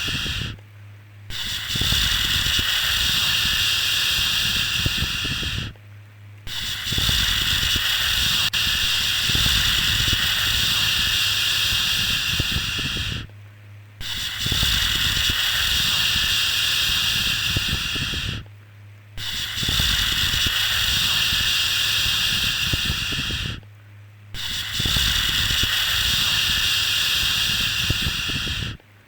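A long shushing 'shhh' for soothing a baby, repeated over and over. Each hiss lasts about four to seven seconds, with a short pause of under a second between them, so five full shushes are heard.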